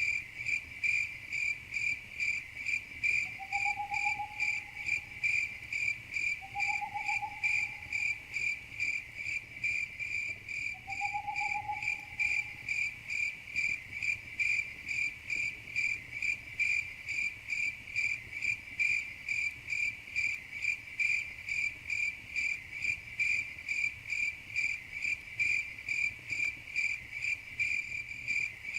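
Crickets chirping in an even, unbroken rhythm of about three chirps a second, with three faint short calls of another animal in the first half.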